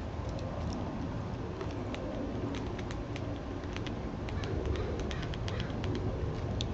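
Backyard birds chirping, many short sharp calls in quick succession from about a second and a half in, over a steady low rumble in the background.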